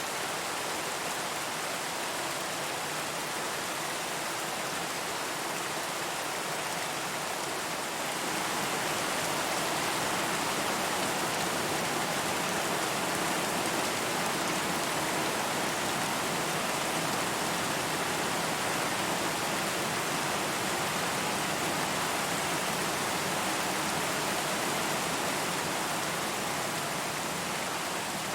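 Steady rain falling, a dense, even hiss that swells a little about a third of the way in and eases slightly near the end.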